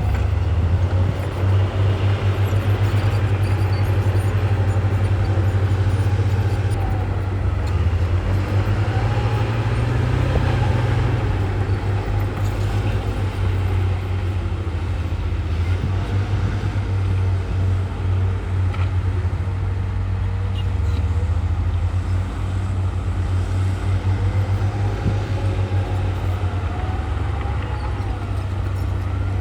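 Komatsu bulldozer's diesel engine running steadily with a deep drone, its pitch shifting a little as the load changes, with faint higher whining tones that rise and fall.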